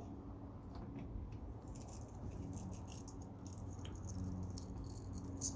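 Flat-head screwdriver prying cut copper loose, with scattered light metallic clicks and scrapes as the pieces come free. A faint steady low hum runs underneath.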